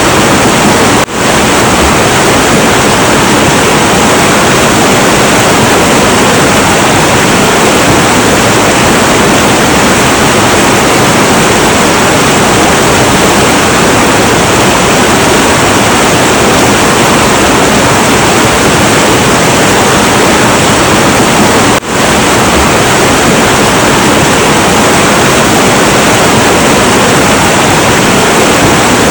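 Heavy, turbulent river water rushing in a loud, steady roar. The level dips for a split second twice: about a second in and about two-thirds of the way through.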